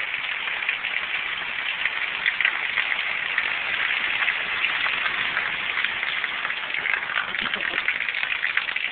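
Steady hiss of rushing water from heavy rain and a swollen, fast-running river.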